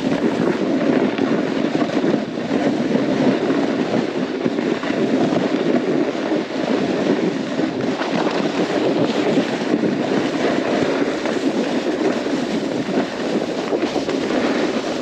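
Snowboard riding through snow, the board scraping and rumbling steadily over the surface, with wind noise on the camera microphone.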